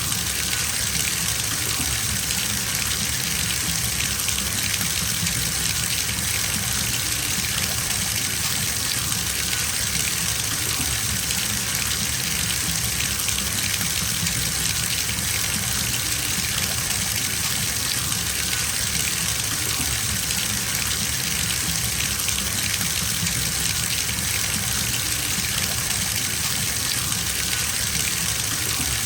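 Water running from a tap into a filling bathtub, a steady unbroken gush.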